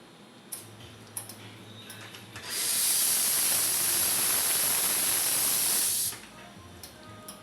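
Sanremo Zoe espresso machine's steam wand being purged: a loud, steady hiss of steam for about three and a half seconds that starts and stops abruptly. A few light clicks come before it.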